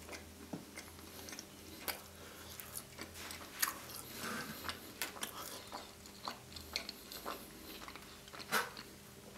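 Close-up mouth sounds of a person chewing a bite of thin-crust Nutella, strawberry and marshmallow dessert pizza: soft wet smacks and clicks at irregular intervals.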